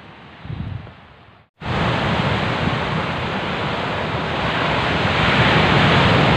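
Wind buffeting the microphone: a loud, steady rushing noise that cuts in abruptly after a short gap about a second and a half in.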